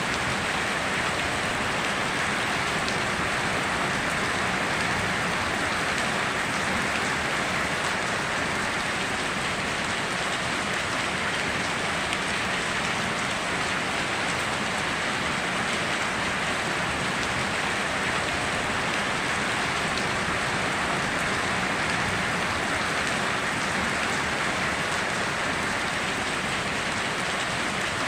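Steady heavy rain falling and pattering on surfaces, an even hiss with no thunder or other events.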